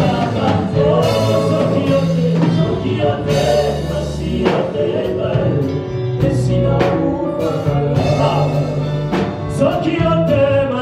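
Live gospel worship music: singers over a band, with a held bass line and repeated sharp drum or cymbal hits.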